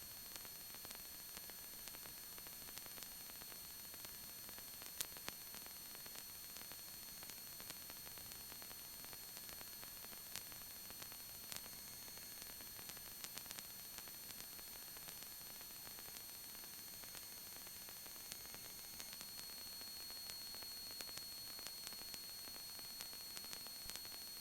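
Faint electronic static hiss from the aircraft's radio/intercom audio feed, with a few thin steady high-pitched whines and a few small clicks.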